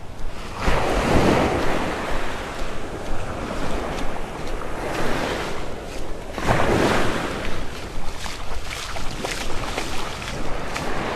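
Surf washing onto the beach, swelling twice, about a second in and again around six and a half seconds, with wind buffeting the microphone throughout.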